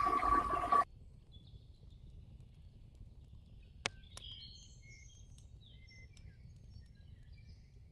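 Faint birdsong: scattered short, high chirps and twitters, with two sharp clicks about four seconds in. It is preceded, in the first second, by a louder sound holding a steady high tone that cuts off abruptly.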